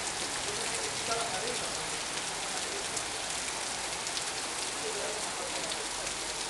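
Heavy downpour: rain pouring steadily and hard, with many sharp individual impacts of drops striking surfaces.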